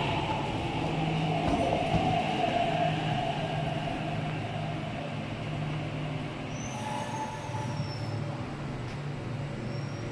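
MTR East Rail line R-Train electric multiple unit heard from inside, running on the line with a steady motor and wheel hum that gradually gets quieter. A brief high squeal comes and fades about two-thirds of the way through.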